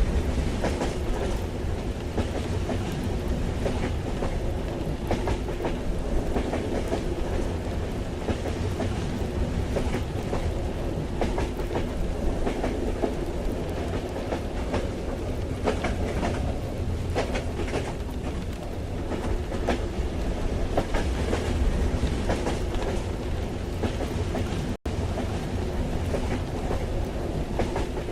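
Ambience of riding inside a moving train carriage: a steady low rumble with irregular clatter and knocks from the wheels and car. The sound cuts out for an instant about three-quarters of the way through.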